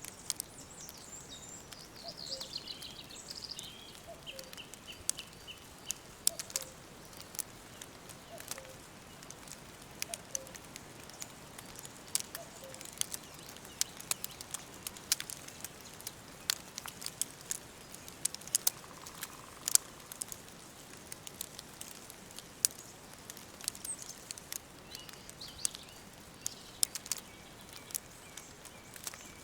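Wood fire crackling with irregular sharp pops over a soft hiss, together with forest birdsong. A falling trill of bird song comes in the first few seconds, and more bird notes come near the end. A soft low call repeats about once a second in the first half.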